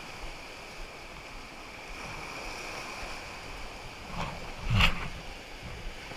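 River water rushing steadily around an inflatable raft, with a single loud thump about five seconds in.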